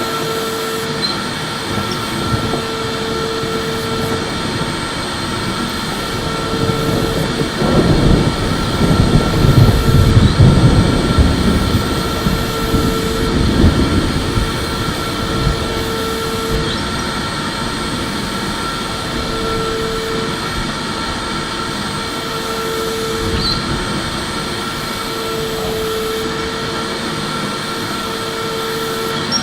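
Electric vacuum cleaner running continuously: a steady motor whine over rushing air noise, with a lower hum that keeps cutting in and out. It gets louder and rougher for several seconds starting about eight seconds in, then settles back.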